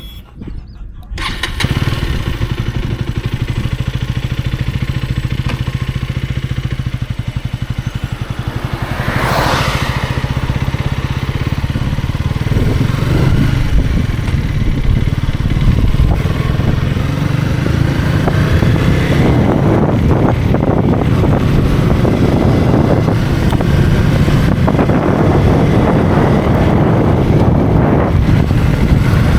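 Motorcycle engine starting about a second in and running steadily, with a brief rising-and-falling tone about nine seconds in. From about twelve seconds it grows louder as the bike gets under way, and wind and road noise build up over the second half.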